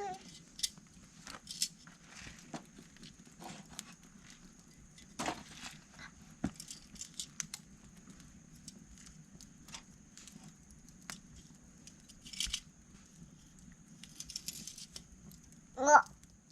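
Small wood campfire crackling, with scattered light clicks and knocks as the wood is handled. A child's brief vocal sound near the end.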